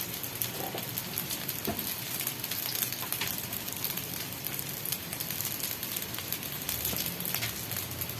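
Chicken frying in hot oil: a steady sizzle with scattered crackles.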